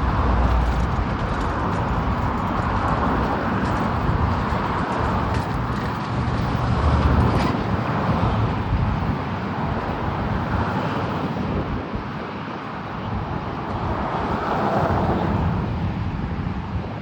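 Steady jet roar from an Embraer E175's GE CF34 turbofans on approach to land, swelling and easing slowly with a low rumble underneath.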